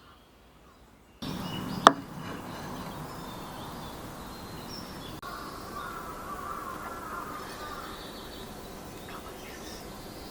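Outdoor background noise with birds calling, cut in suddenly about a second in. A single sharp knock comes shortly after and is the loudest sound.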